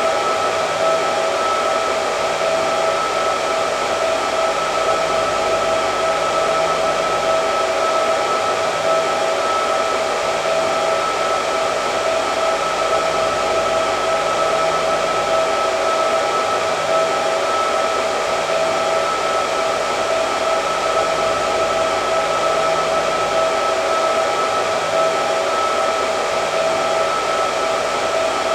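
Hair dryer running continuously: a steady rush of air with a constant whine on top.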